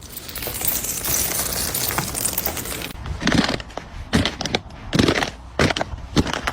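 Brittle ice clinking and cracking: about three seconds of dense tinkling rush, then a run of separate sharp cracks and crunches.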